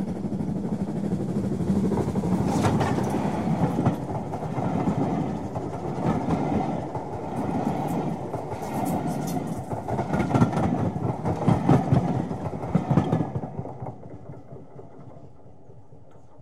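Train passing: a rolling rumble with wheels clattering over rail joints, which fades away about three seconds before the end.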